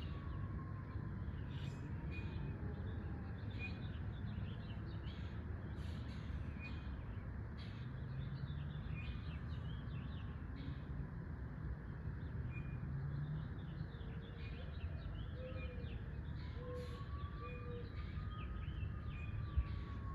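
Many small birds chirping in short, repeated calls over a steady low background rumble. A faint tone slowly falls in pitch in the first few seconds and rises again near the end.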